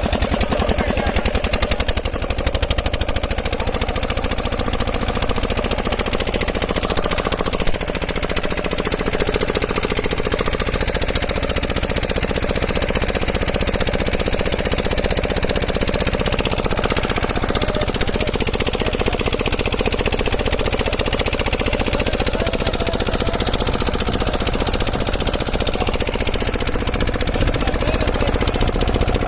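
An engine running steadily with a rapid, even chugging pulse.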